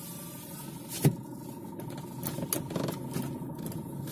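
Car engine idling with a steady low rumble, a single sharp knock about a second in and a few lighter clicks a little later.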